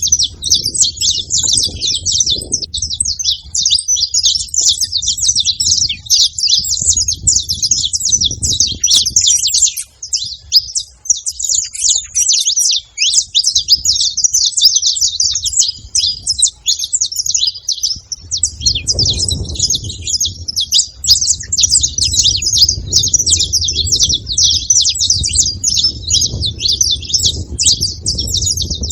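Several saffron finches chirping and singing together, a dense, unbroken stream of high, rapid notes.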